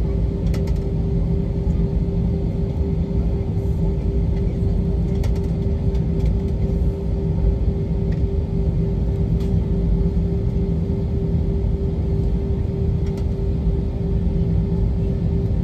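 Steady cabin noise of an Airbus A321 airliner: a deep, even rumble of engines and airflow with a steady hum through it.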